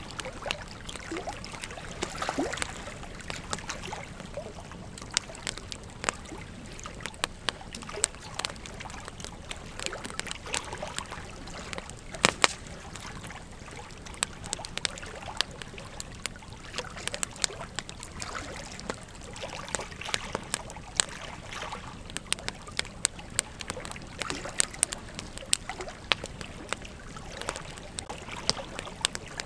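Campfire burning, with irregular crackles and pops over a steady hiss, and one sharp, loud pop about twelve seconds in.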